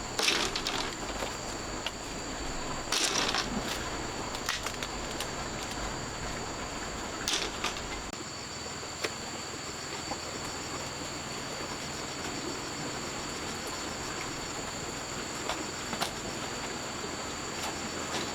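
Steady high-pitched insect chirring, with a few brief knocks or rustles about three and seven seconds in and again near the end.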